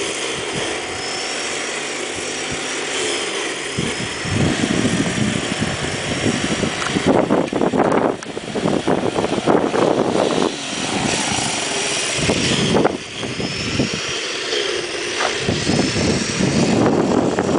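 Small engine of an X18 pocket superbike running and revving, its pitch rising and falling, with stretches of rougher, louder noise in the middle.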